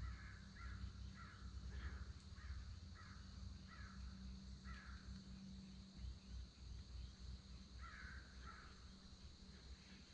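A bird calling in a run of short, evenly spaced calls, about eight in the first five seconds, then two more near the end, faint over a steady low hum.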